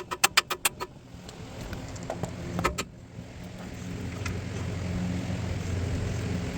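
Ratchet wrench clicking quickly, about eight clicks in under a second as it works a 21 mm tie rod nut, then two more metallic clicks a couple of seconds later over a low steady hum.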